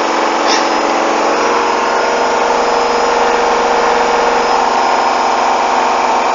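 Hoover washing machine on its final 1400 rpm spin with a badly unbalanced bedding load: a steady, loud motor whine and drum rush as the machine shakes. A fast, low rattle joins about two seconds in.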